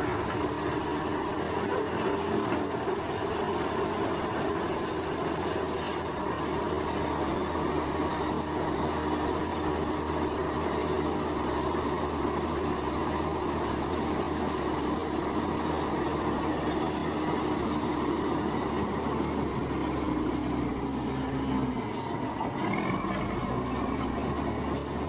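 Diesel engine of heavy earthmoving machinery running steadily under load; its note drops and then climbs again near the end. Insects chirp faintly in the background.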